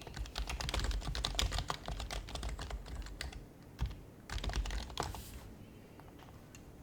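Typing on an HHKB Professional HYBRID Type-S keyboard with its quietened Topre switches. A fast run of keystrokes lasts about three seconds, followed by a short pause and a second, briefer flurry, and it goes quiet for the last second or so.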